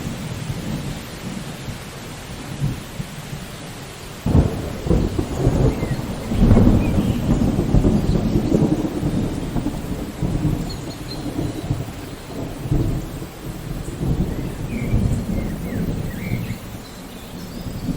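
Steady rain falling, with a thunderclap breaking about four seconds in and a loud low rumble of thunder rolling on and slowly fading through the rest.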